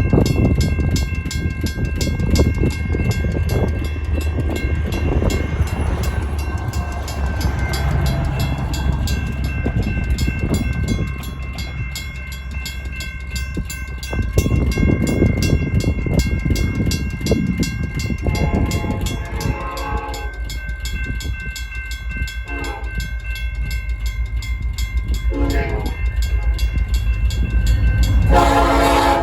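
Railroad crossing bells ringing fast and steadily: an electronic bell and a mechanical striking bell together. Union Pacific freight locomotive's horn sounds the grade-crossing signal as the train nears: a long blast about two-thirds of the way in, two short ones, then a loud long blast near the end. A low rumble runs underneath.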